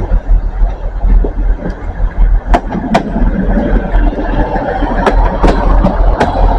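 A train moving at a railway station: a heavy, uneven low rumble with several sharp clicks from a few seconds in.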